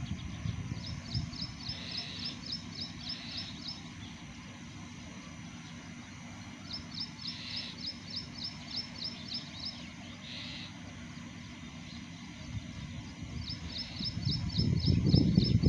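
A bird calling in three runs of quick, high, repeated notes, about four a second, with a few softer calls between. A low rumble underneath swells near the end.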